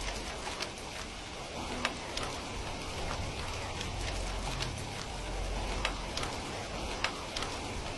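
Steady rain, with the sharp pops of a crackling wood fire scattered irregularly through it.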